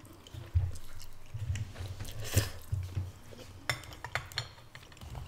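Close-miked chewing of black bean noodles, with soft mouth noises through the first few seconds. Near the end come a few sharp clicks and knocks as a hard king crab leg is picked up off a wooden board.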